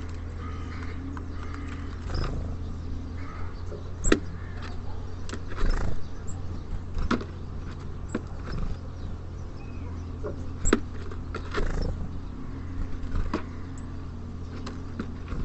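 Small birds at a feeder: scattered sharp taps and clicks of beaks and feet on the feeder, with a few faint chirps, over a steady low rumble of city traffic.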